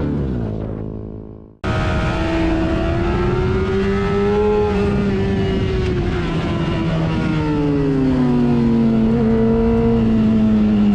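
A motorcycle engine running with wind noise, its pitch slowly rising, then falling and levelling off. It comes in after a brief gap about a second and a half in, where another engine's note drops and fades out.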